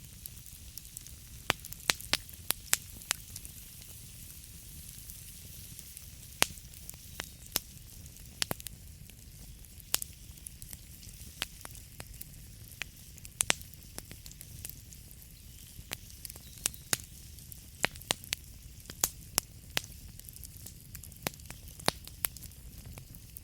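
Burning wood fire crackling: irregular sharp pops and snaps scattered over a steady low rumble and soft hiss of the flames.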